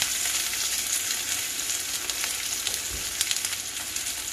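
Cornmeal-coated yellow squash sizzling steadily in hot oil in a cast-iron skillet, with light scrapes and clicks of a metal utensil against the pan as the slices are folded over.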